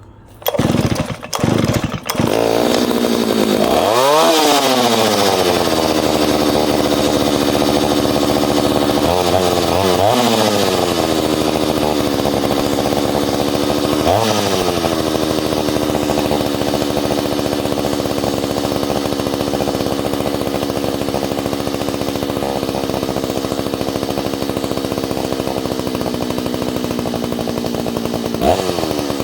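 Ported Solo 670 two-stroke chainsaw starting with a few sputters, then running steadily on its freshly retuned carburettor, with the throttle blipped up and back down several times.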